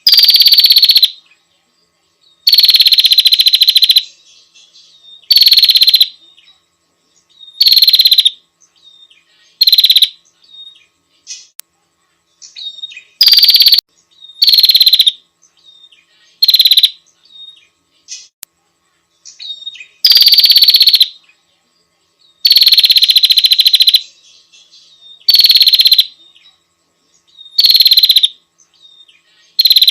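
Small songbird giving loud, rapid buzzing trills, each about a second long, repeated every two to three seconds, with faint short chirps in between.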